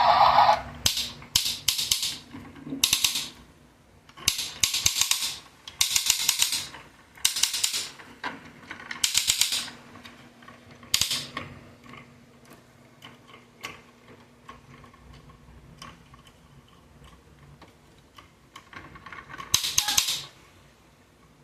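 Bursts of rapid plastic ratcheting clicks from a toy excavator truck's mechanism being worked, each under a second long: several in quick succession, then a pause and one more near the end. A louder sound cuts off within the first second.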